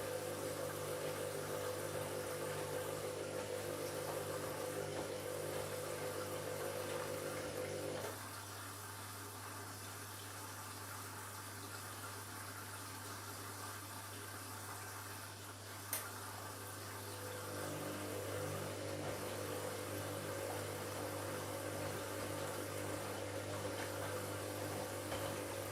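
Washing machine filling and washing, with running water and a steady motor hum. The hum drops away about a third of the way in, a sharp click comes a little past the middle, and the hum starts again shortly after.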